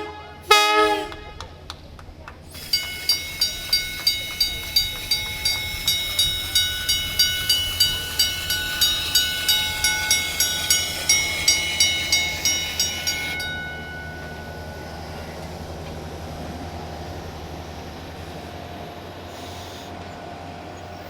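Train horn sounding two short blasts, then a railroad crossing bell ringing steadily at about three strokes a second for roughly ten seconds before stopping, over a low steady hum.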